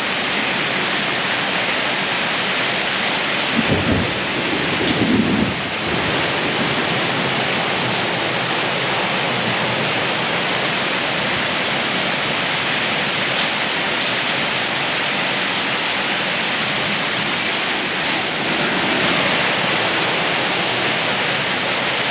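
Heavy hail and rain pelting down together, a dense steady hiss and patter. Two brief low rumbles come about 4 and 5 seconds in.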